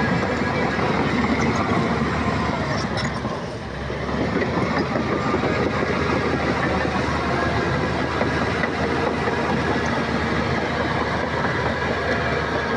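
Crawler bulldozer's diesel engine running steadily with its tracks clattering, easing off briefly about three and a half seconds in before picking up again.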